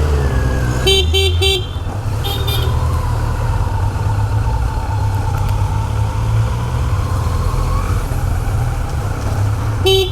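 Motorcycle engine running steadily under road and wind noise. A horn beeps three quick times about a second in, once more about a second later, and starts again right at the end.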